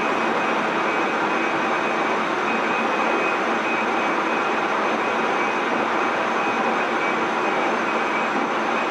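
Tobu 30000 series electric train heard from inside motor car MoHa 33409, running steadily at speed: continuous wheel-on-rail rumble with a faint steady high tone, no change in speed or pitch.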